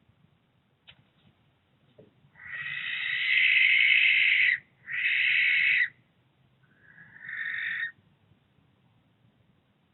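Barn owl screeching: three long, harsh screeches in a row, the first about two seconds long and the last one fainter.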